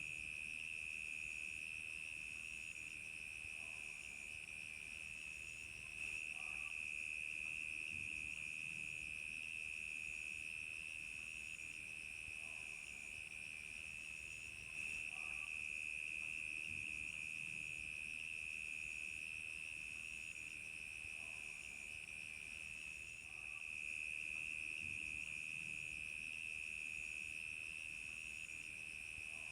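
Crickets chirping at night in a steady, continuous high trill, with a fainter, higher chirp pulsing about once a second over it.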